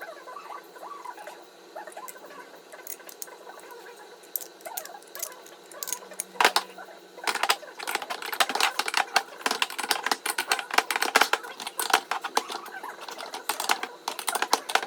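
Rapid, irregular clicking and light clinking of hand tools and small metal parts being worked, growing much busier about halfway through.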